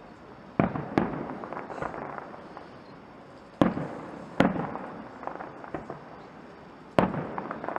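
Aerial fireworks display: five loud bangs from bursting shells, each trailing off in a long fading echo, with smaller crackles between them.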